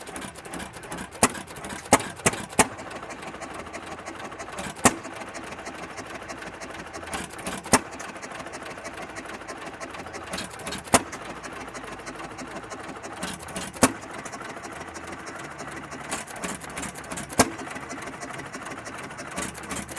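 Old engine running steadily, with a sharp, loud pop every one to three seconds at uneven gaps.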